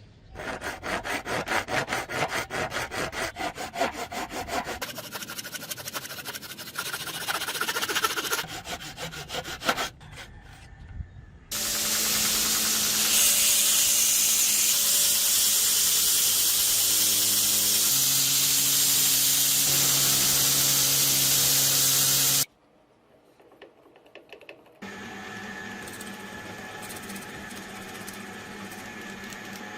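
Metalworking on a drill bit being shaped into a knife. First come quick, even strokes of a hand tool on steel. Then a power grinder runs loud and steady for about ten seconds and cuts off suddenly. A quieter power tool runs near the end.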